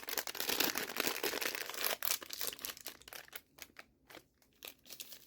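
Bag of Hi-Chew gummies being opened and crinkled in the hands: a dense crinkling for about the first two seconds, then lighter rustles and ticks.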